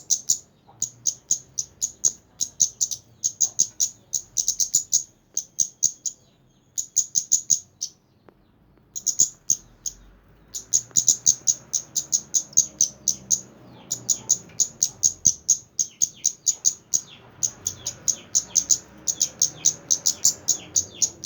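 Kemande bird singing vigorously: rapid series of sharp, high chirps, about six a second, in runs of one to three seconds with brief pauses between them.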